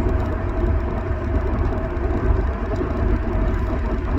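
Steady low rumble of a moving car's engine and road noise, with a faint steady hum above it.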